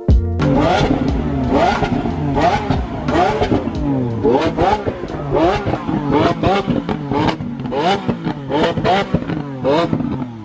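Performance car engine with a loud aftermarket exhaust being revved in quick repeated throttle blips, nearly two a second. Each rev rises and falls in pitch, with sharp exhaust cracks and pops between them.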